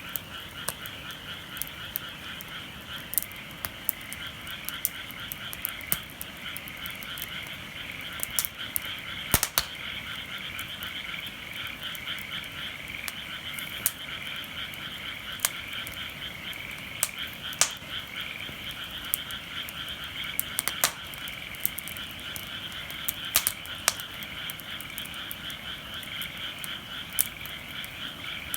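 A dense frog chorus of rapid, continuous croaking. Sharp pops and crackles from a wood fire are scattered through it, the loudest about a third of the way in.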